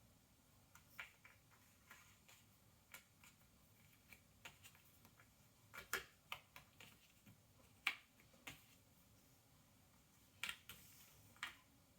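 Cardboard jigsaw puzzle pieces clicking and tapping as they are picked up, set down and pressed into place on a tabletop. The soft, irregular clicks come a few to the second, with sharper taps about six and eight seconds in and again near the end.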